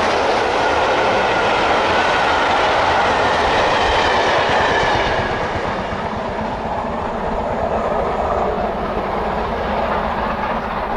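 Train running on rails: a steady rushing noise with wheels clattering over the track, easing slightly about five seconds in.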